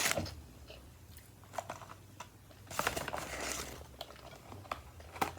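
Close-up eating sounds: chewing and the crinkle of fast-food wrapping, as a run of short clicks with a longer rustling burst about three seconds in.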